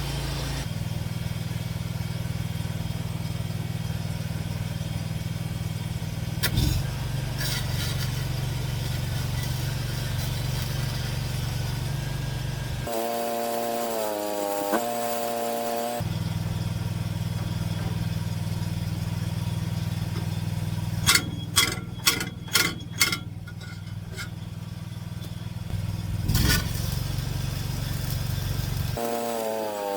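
Stick welding with 6010 rod, powered by an engine-driven welder on a service truck: the welder's engine runs with a steady drone. The drone breaks off for a few seconds twice. About two-thirds of the way in there is a quick run of about seven sharp taps.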